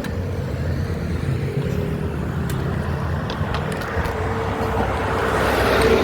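Vario 125 scooter engine running steadily, growing louder toward the end.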